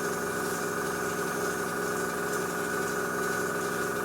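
Small airbrush compressor running with a steady hum, and the airbrush hissing as it sprays a fine mist of paint.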